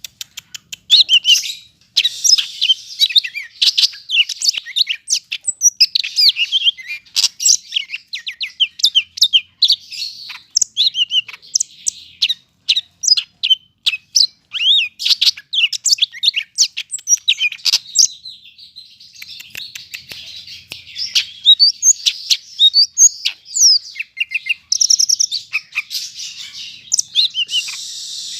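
Cucak hijau (greater green leafbird) singing a long, nearly unbroken run of rapid, varied chirps and whistles, its song densely packed with different phrases.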